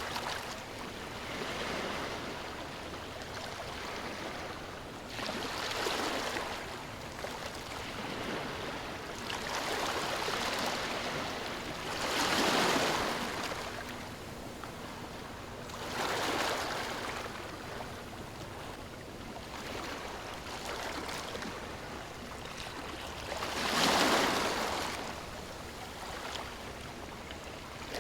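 Ocean waves washing onto a shore, a steady hiss that swells every few seconds, strongest about twelve seconds in and again near the end.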